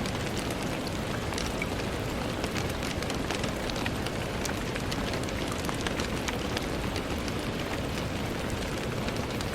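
Steady rain falling, with many small scattered drop ticks against a constant hiss.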